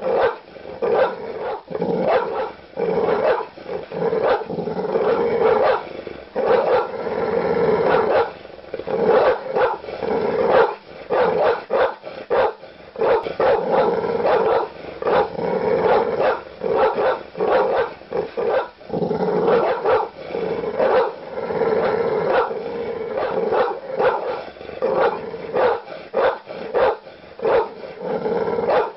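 Large dog barking aggressively: deep barks come one after another in quick runs, with short pauses between the runs.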